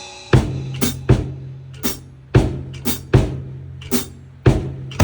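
Drum kit played by a learner: an uneven pattern of about ten snare and bass drum hits, with a low drum ring hanging between them. A cymbal crash struck just before fades away at the start.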